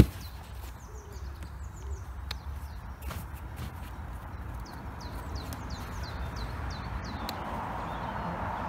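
A small bird singing a fast run of short, high, falling notes over a low wind rumble. A sharp click right at the start and two fainter clicks a couple of seconds in come from the seat backs and their buckles being fitted into an inflatable canoe.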